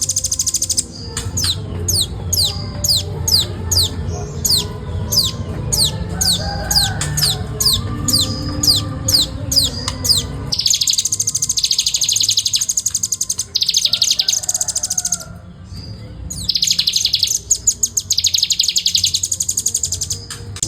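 Velvet-fronted nuthatch calling: first a run of sharp, falling high notes, about three a second, then a fast, tightly packed trill in long bursts with short breaks.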